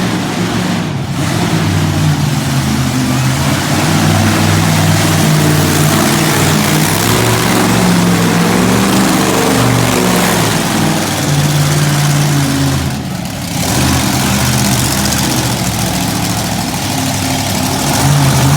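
Monster truck engine running loud and revving, its pitch rising and falling, with brief drops in level about a second in and again about thirteen seconds in.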